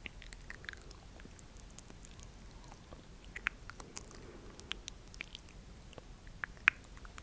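Close-miked wet mouth sounds: irregular soft clicks and smacks of lips and tongue, scattered through, with a sharper click near the end.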